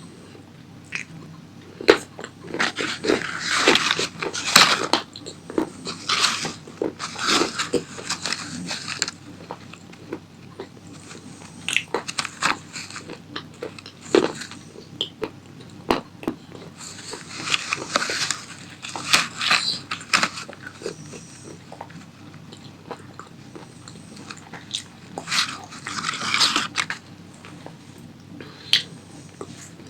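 A person biting and chewing crunchy tomato pasta close to the microphone, in repeated bouts of crackly crunching with sharp snaps between quieter pauses.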